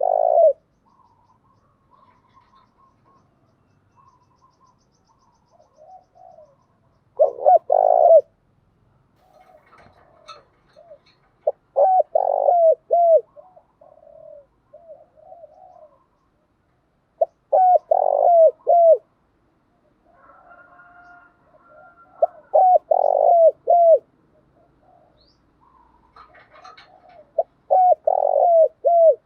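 Spotted dove cooing: loud groups of several quick coos about every five seconds, with fainter coos in between. These are lure calls meant to stir other doves into calling.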